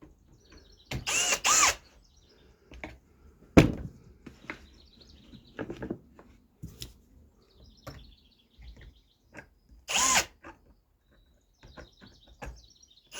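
Power drill-driver run in a few short bursts, whining up and down in pitch while backing screws out of a joint in order to redo it. There is a sharp knock of wood or a tool a few seconds in, other light handling clicks, and faint bird chirps.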